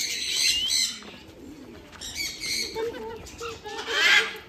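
Birds calling: three bursts of high, chirping calls, the loudest near the end.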